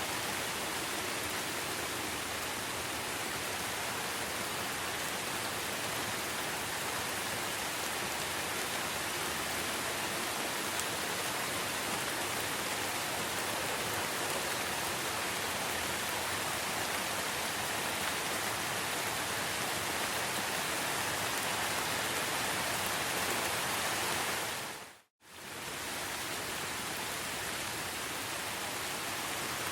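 Steady rain, an even hiss with no single drops standing out. It cuts out for an instant about 25 seconds in and comes straight back.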